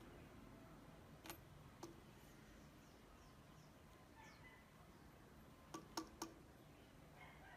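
Near silence with a few faint clicks: two single ones, then three in quick succession about six seconds in.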